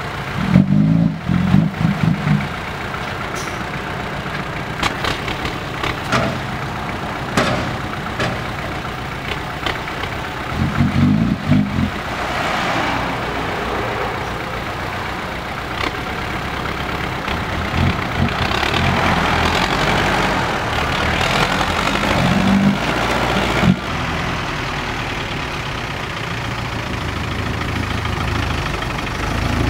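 Six-wheel dump truck's engine running steadily with some rises in load, while the truck is stuck in mud. The engine gets louder for short spells about a second in and again around eleven seconds, and sounds rougher for a stretch in the middle.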